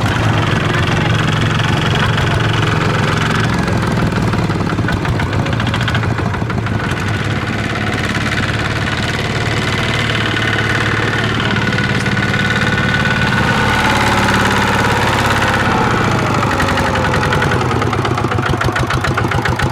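Diesel engine of a farm machine in a muddy rice field, running steadily with a fast, even firing beat. A higher whine slides down in pitch about two-thirds of the way through.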